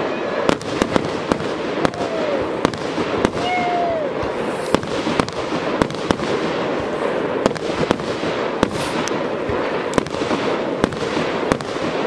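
Fireworks launching and bursting: an irregular run of sharp bangs and cracks, about two a second.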